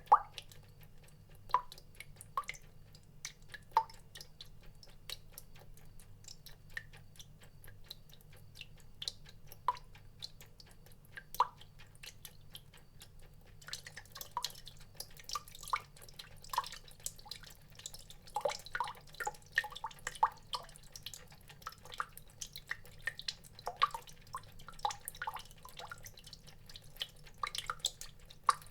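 Water drops falling one by one with short, pitched plinks at an irregular pace, sparse at first and coming much more thickly from about halfway. A faint steady low hum lies underneath.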